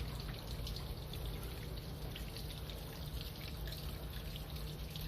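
Water trickling and dripping steadily, with small scattered drips over a low steady hum.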